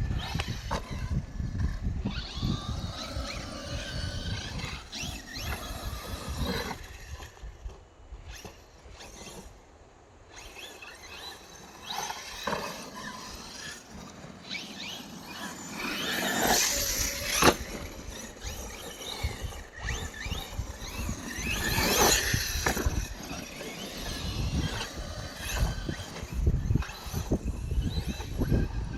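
Electric RC monster trucks' brushless motors whining, the pitch rising and falling as they accelerate and back off, over a low rumble. Two louder passes come a little past the middle.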